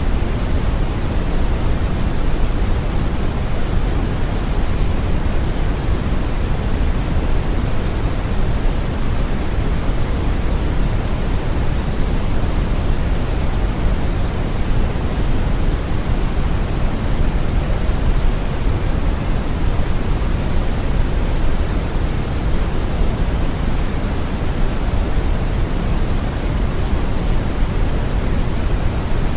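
Steady brown noise: an even, deep rushing hiss weighted heavily toward the low end, with no changes or events.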